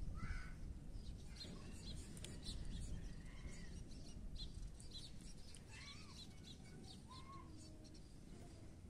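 Small birds chirping: scattered short chirps and brief rising-and-falling calls, over a low steady rumble.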